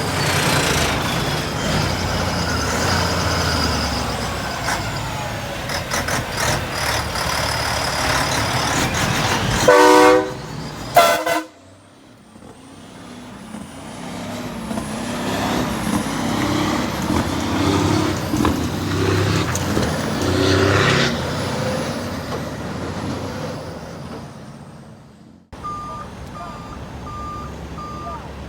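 Heavy trucks running and passing, with two short horn blasts about ten seconds in. Near the end, a steady beeping repeats a little under twice a second, like a truck's reversing alarm.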